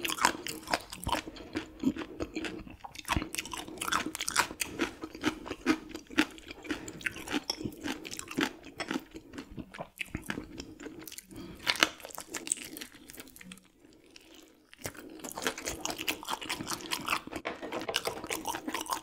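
Crunchy chewing of raw gizzard shad, its small bones crackling between the teeth in a dense run of sharp crunches, with a short pause about two-thirds of the way in.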